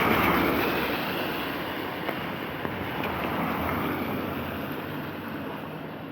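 A car passing on a wet road, its tyres hissing loudest at the start and fading away.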